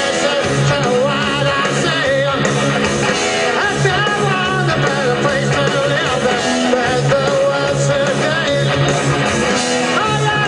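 Loud live rock music: a band playing with electric guitar and a singing voice over bass and drums.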